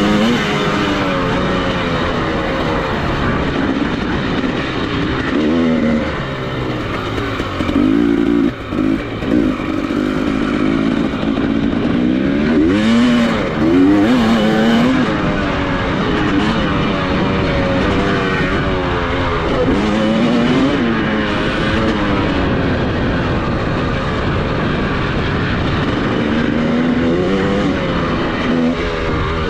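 Off-road motorcycle engine being ridden hard, revving up and falling back over and over as the rider works through the throttle and gears, with a brief dip in the engine note about eight seconds in.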